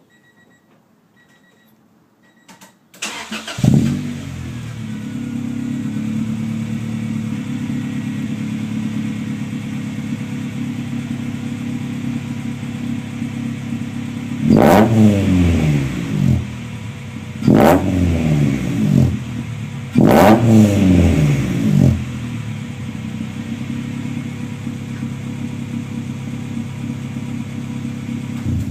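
Honda B20B 2.0-litre four-cylinder engine breathing through a Skunk2 Racing Mega Power cat-back exhaust, a test pipe in place of the catalytic converter and a 4-1 header, started warm: it catches about three seconds in with a quick flare and settles to a steady idle. About halfway through it is revved three times, each rev climbing and falling back over a second or two, then it returns to idle.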